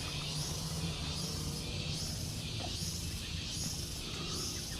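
A chorus of jungle insects: a hiss that swells and fades about once a second.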